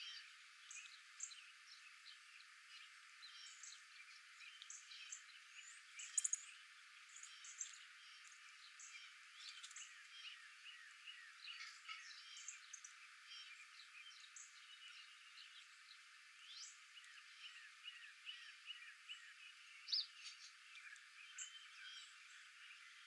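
Faint nature ambience: a dense chorus of many short, high chirping calls, with a few louder calls standing out about six seconds in and near the end.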